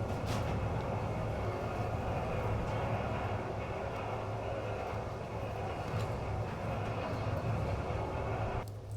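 A machine running steadily with a low hum under a rushing noise, cutting off suddenly near the end.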